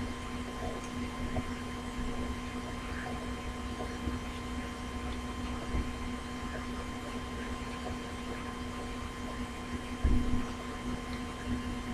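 Steady electrical hum with faint scattered clicks, and a brief low bump about ten seconds in.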